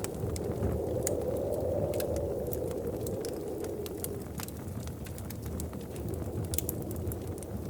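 Wood fire crackling, with scattered sharp pops and snaps over a steady low rumble that swells slightly during the first few seconds.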